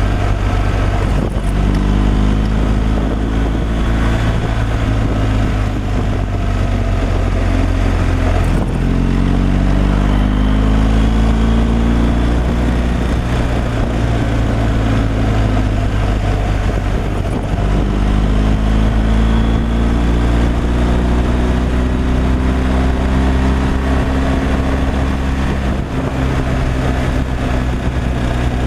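Truck engine running on the road, heard from the cab, loud and steady. Its pitch climbs over the first several seconds, dips briefly about eight seconds in, climbs again, then levels off and eases down.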